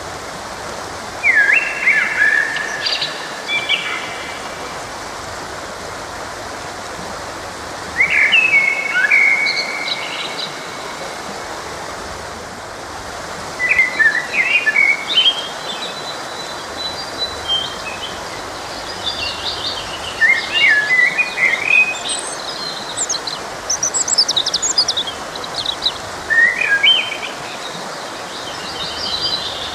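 Songbirds singing in short chirping phrases every few seconds, more often in the second half, over the steady rush of a forest stream.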